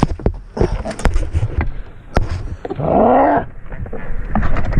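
A man's drawn-out yell of frustration about three seconds in, its pitch rising then falling, amid a scatter of sharp knocks and clicks.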